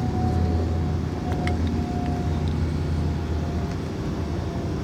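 A steady low engine rumble, like a vehicle idling, with a faint thin steady tone above it that fades out near the end.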